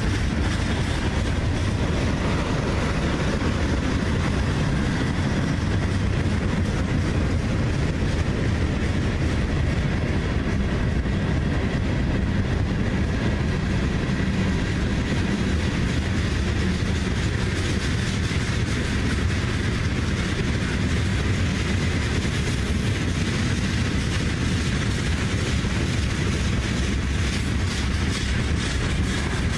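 Freight train cars rolling past, a steady heavy rumble of steel wheels on the rails with clickety-clack.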